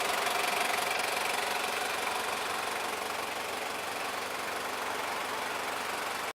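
Toyota Land Cruiser Prado's 3.0-litre turbo-diesel engine idling with a steady diesel clatter. A faint high whine fades away in the first second, and the sound cuts off abruptly at the end.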